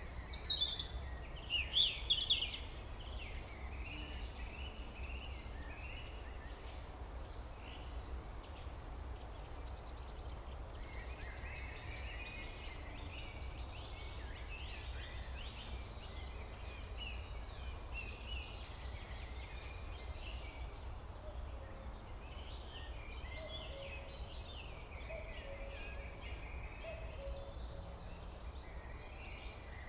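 Birds chirping and calling throughout over a low, steady background rumble, with a louder flurry of calls from about half a second to two and a half seconds in.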